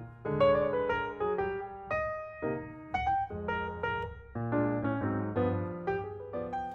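Background piano music: melody notes and chords struck one after another, each fading away after it is played.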